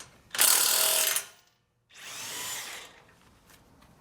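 Cordless power tool running on a fastener in two bursts of about a second each, the first louder than the second.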